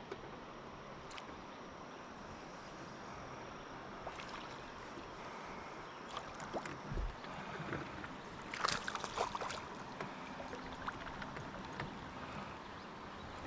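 Steady wash of moving river water, with a short cluster of sharp clicks and knocks about nine seconds in.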